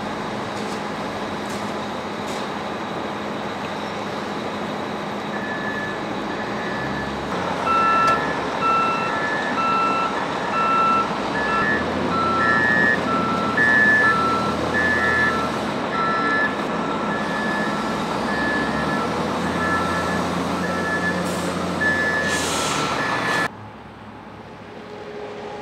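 Heavy truck's engine running while back-up alarms beep in a steady repeating pattern, about once a second, two alarms at different pitches. The sound cuts off suddenly near the end.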